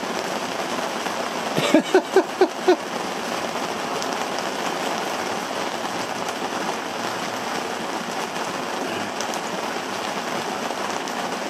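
Steady rain from a thunderstorm. About two seconds in, a quick run of five short, loud sounds cuts through it.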